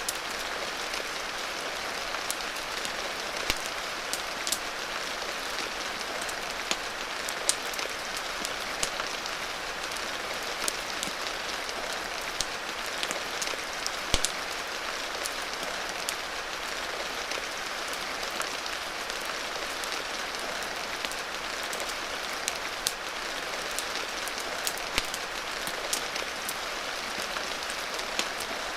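Steady rain hiss mixed with a crackling wood fire, its sharp pops and snaps scattered irregularly throughout.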